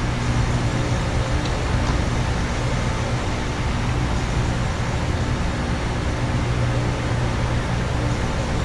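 Outdoor heat pump condenser units running together: a steady low hum of the compressors under the even rush of their fans.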